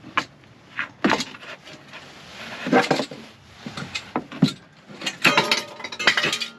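Irregular knocks and clatters of hard objects being handled and set down, a dozen or so separate strikes, bunched together in the last second and a half.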